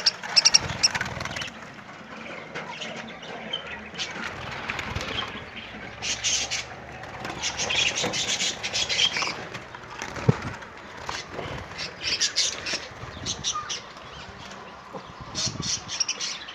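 Budgerigars chirping and chattering in short bursts of quick high notes that come and go every few seconds.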